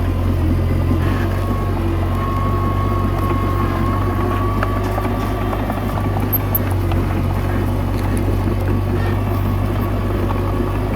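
Komatsu D21A bulldozer's diesel engine running steadily, with a thin whine over it during the first half.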